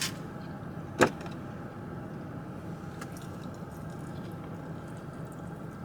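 Sharp clicks of eating: one at the start, one about a second in, a faint tick about three seconds in, over a steady background hum.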